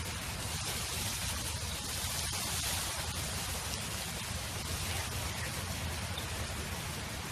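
Steady wind: an even rushing hiss with a low rumble underneath.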